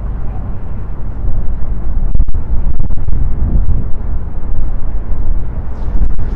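Strong wind buffeting the microphone: a loud, low, uneven rumble.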